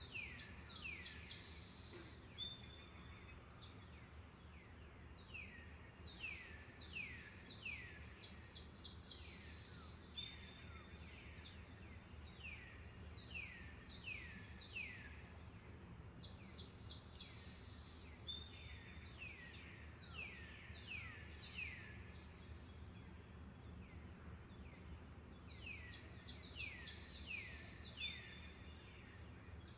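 Forest songbirds singing in phrases of several quick downward-sweeping notes, with short high trills, repeating every few seconds. Under them run a steady high-pitched insect-like drone and a low, even rush of flowing water.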